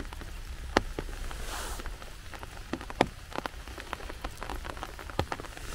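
Steady rain falling, with single raindrops ticking sharply close by at irregular moments.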